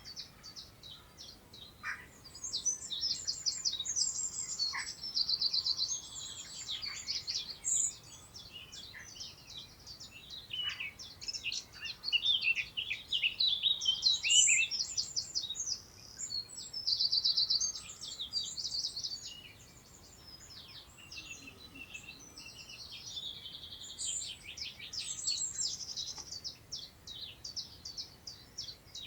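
Songbirds singing in the countryside: fast, high trills and chirps in phrases of a few seconds, several overlapping, with short lulls between them.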